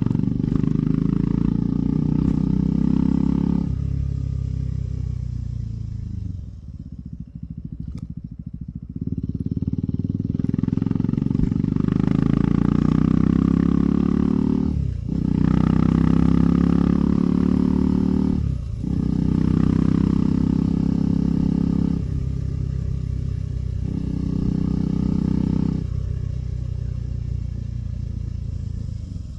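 KTM 390 Adventure's single-cylinder engine under way, pulling with rising pitch. It eases off for several seconds about four seconds in, then picks up again, with two quick breaks for gear changes in the middle and a lighter throttle near the end.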